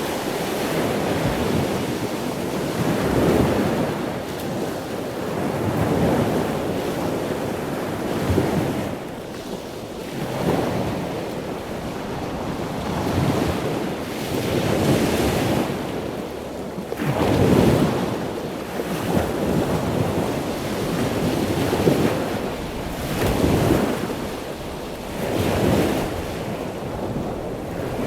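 Ocean surf: waves breaking and washing in, a steady rush that swells and eases every two to three seconds.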